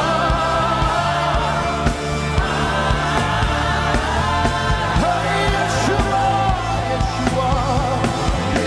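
Live gospel worship music: voices sing long held notes over a band with bass and a steady beat.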